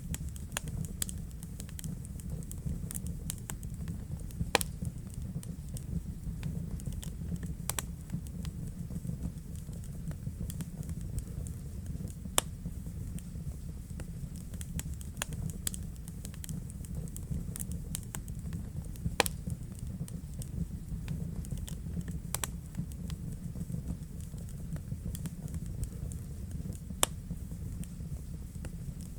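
Wood fire burning in a fireplace: a steady low rumble of the flames with constant crackling, and a few louder pops, one about four seconds in, others near the middle and toward the end.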